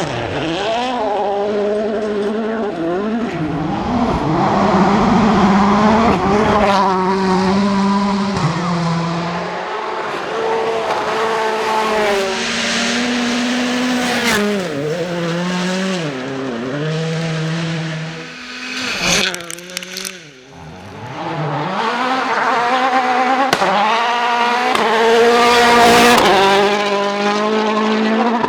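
Rally cars at full speed, their engines revving hard and dropping in pitch at each gear change and lift. About twenty seconds in the sound drops away briefly, with a few sharp cracks, then the revving picks up again.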